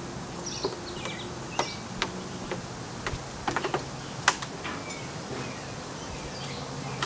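Small birds chirping in short, falling notes, mixed with a scatter of sharp clicks and taps, the loudest a little past the middle, over a steady low hum.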